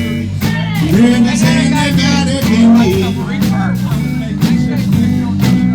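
Live band playing a blues-rock number, led by guitar over a steady beat.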